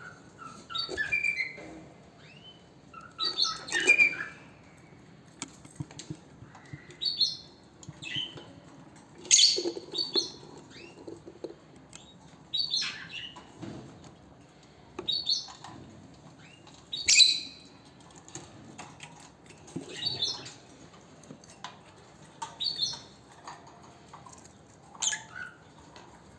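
Pet lovebird giving short, sharp chirping calls, one every two to three seconds, some in quick pairs.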